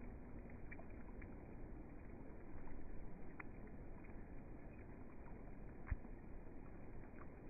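Rain falling steadily, with scattered sharp drop hits through a dull, muffled hiss; it swells briefly a few seconds in.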